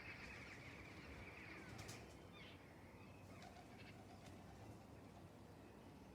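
Near silence with faint bird chirps.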